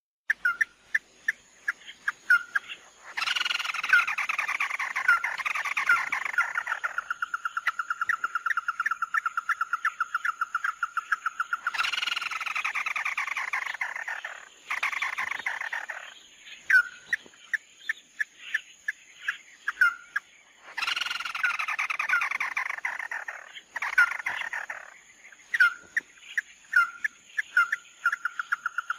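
Song of the bird known in Vietnam as 'mắt đỏ', played as a trapping lure. It gives sharp single notes, then rich descending phrases that run into a long, fast trill. The cycle repeats about three times.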